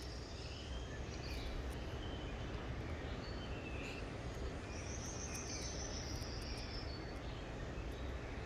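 Insect trill, high-pitched and buzzing, heard at the start and again for about two seconds past the middle, with scattered short bird chirps over a low background rumble.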